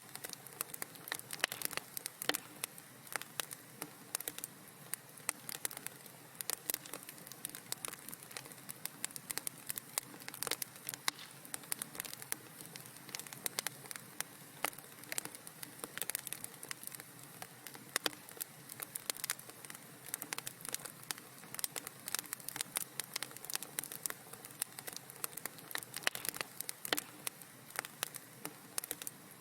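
Wood fire crackling in a fireplace: a steady hiss of flame with many sharp irregular pops and snaps.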